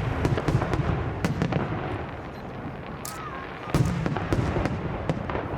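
Aerial fireworks going off: a dense run of bangs and crackles over a steady rumble, with a louder cluster of bursts about four seconds in.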